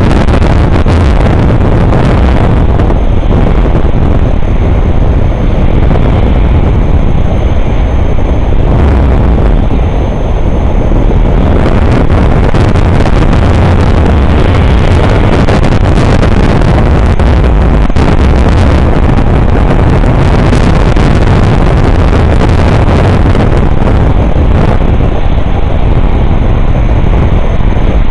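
Very high winds blasting the microphone: a loud, continuous rumble of wind noise that barely lets up.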